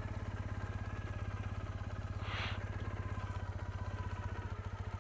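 2008 Triumph Bonneville's 865 cc air-cooled parallel-twin engine running at a steady idle, with an even low pulse. A brief hiss about halfway through.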